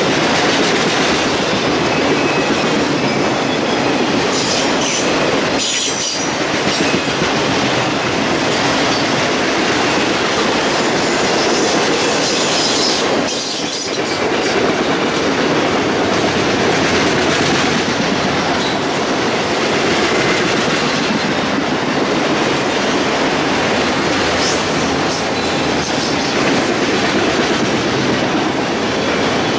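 Train cars rolling past: a loud, steady rush of steel wheels on rail, with thin high wheel squeals now and then and two brief dips in the noise.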